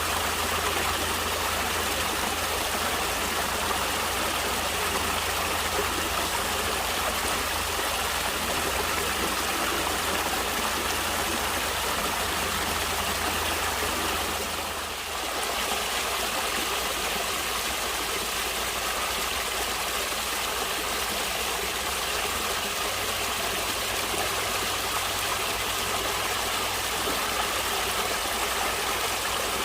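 Natural running water flowing steadily, like a stream, with a brief dip in level about halfway through.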